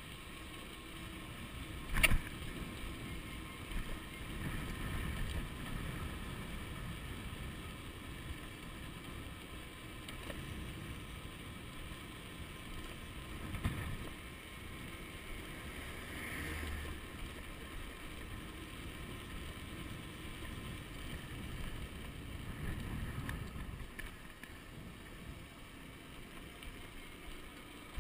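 Wind buffeting the microphone of a chest-mounted camera on a moving electric bicycle: a steady low rumble with faint steady tones above it. A single sharp knock comes about two seconds in.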